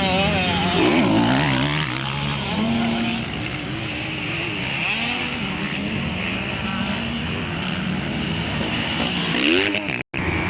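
Several 250 cc motocross bikes racing on the track, their engines revving up and down as they accelerate, with the sound cutting out for a split second near the end.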